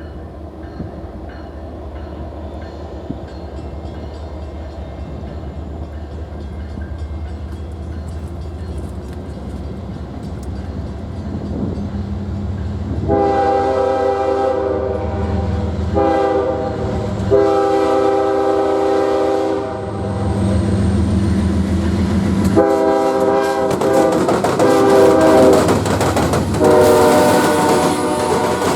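A train approaching with a low rumble that grows steadily louder, then a locomotive's multi-note air horn sounding a series of long blasts, with a shorter one in the first group, in two groups separated by a pause of a few seconds.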